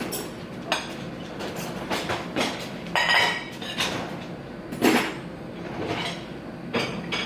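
Kitchen clatter: a series of clinks and knocks of dishes and kitchen things being handled, with the loudest knock about five seconds in.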